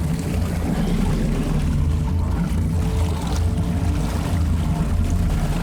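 Boat motor running steadily at an even pitch, with water noise.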